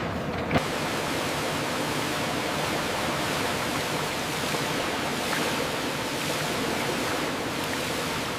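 Steady rushing hiss like flowing or spraying water, switching on with a short click about half a second in.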